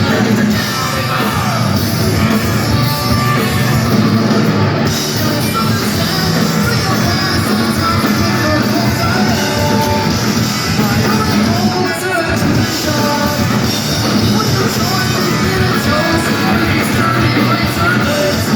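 Punk rock band playing live, loud and continuous, with a singer over guitars and drums.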